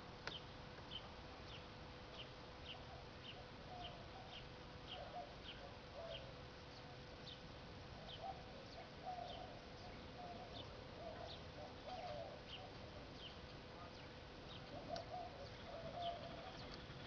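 Birds calling: one gives short high chirps about twice a second while lower calls come in short clusters, with a faint steady hum underneath.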